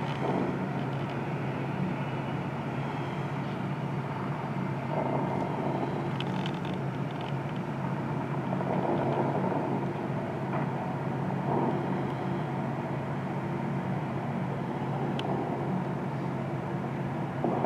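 Steady hum of distant city traffic rising from the street far below.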